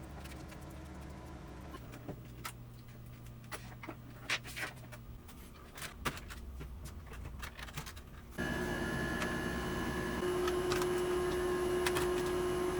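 Plastic building bricks clicking and rattling as pieces are handled and pressed together, in many short irregular clicks. About two-thirds of the way through, a steady hum with a few held tones comes in under the clicks.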